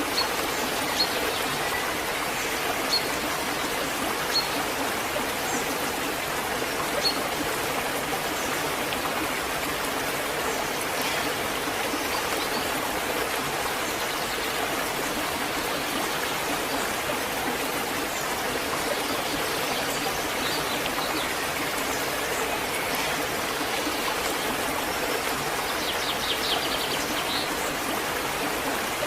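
Waterfall and its stream rushing steadily, with a few faint short bird chirps above the water near the start and again near the end.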